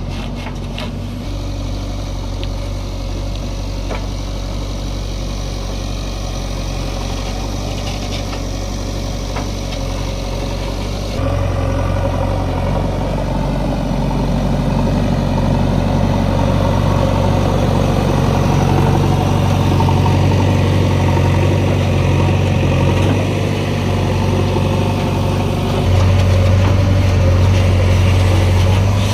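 Diesel engine of heavy farm or earth-moving machinery running steadily. It gets louder about eleven seconds in and again near the end.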